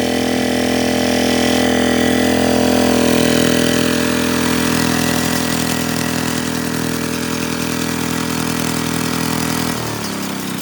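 Hinota HG Gold 155 DI tractor's diesel engine running steadily, its pitch dropping near the end as it slows.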